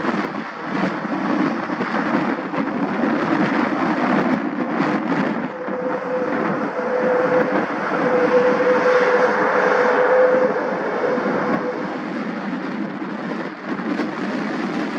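Airbus A320neo's Pratt & Whitney PW1100G geared turbofan engines at takeoff power, a steady jet roar that swells to its loudest a little past the middle. A steady hum rises in about six seconds in and fades out by twelve seconds.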